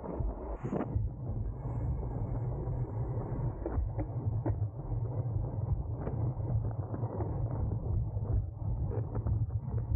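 Steady wind and road rumble on a camera riding on a racing bicycle at speed, with a few sharp clicks scattered through.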